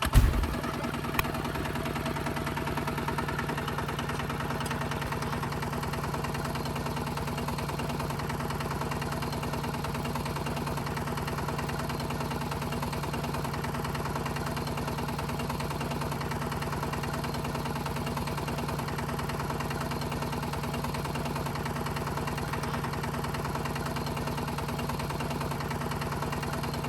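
Small tractor engine idling steadily, with an even, rapid firing beat that neither rises nor falls.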